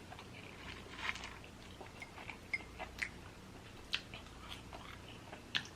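A person chewing a mouthful of cheesesteak sandwich close to the microphone: soft, wet mouth noises broken by small clicks and smacks, a few of them sharper.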